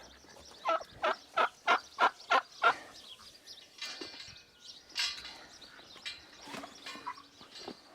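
A turkey calling a run of about seven evenly spaced loud notes over two seconds, followed by scattered calls from the rest of the poultry flock.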